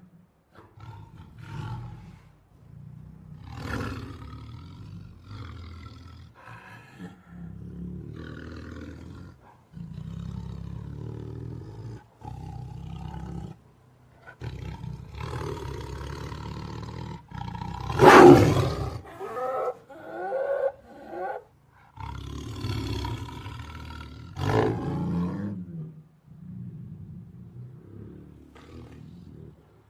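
A tiger roaring over and over, a string of calls of one to three seconds each with short gaps between. The loudest call comes about eighteen seconds in, with another strong one near twenty-five seconds.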